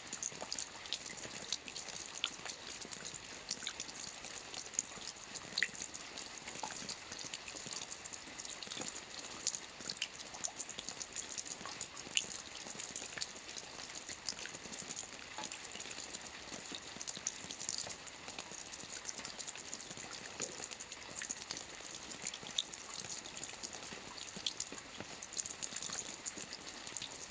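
Steady rain: an even hiss with many separate drops ticking sharply through it.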